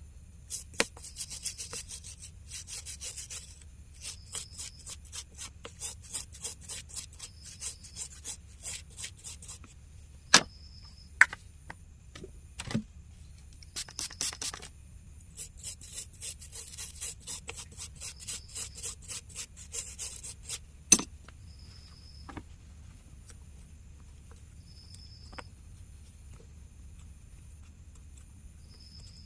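Rapid scrubbing strokes on an earbud's water-damaged circuit board as it is cleaned, in repeated spells for about twenty seconds, with a few sharper clicks. The scrubbing stops about three quarters of the way through, leaving only occasional faint ticks.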